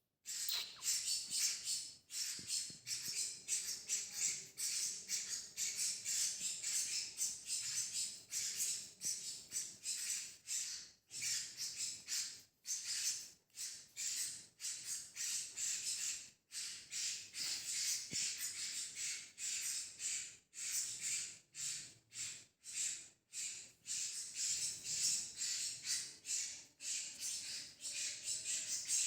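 A group of young vernal hanging parrots calling without pause in rapid, high-pitched chirps and squeaks.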